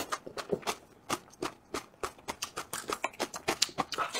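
A person chewing food close to the microphone: an irregular run of small wet clicks and crunches, several a second.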